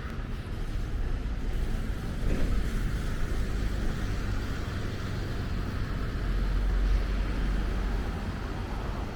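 Road traffic: a steady low rumble of passing vehicles, swelling about six to seven seconds in.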